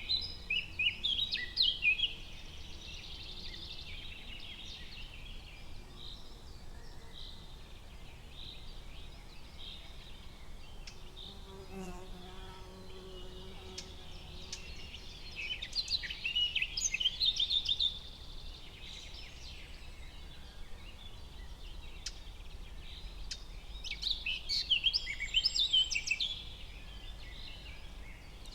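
Forest ambience: songbirds chirping in bursts over a steady low background hiss.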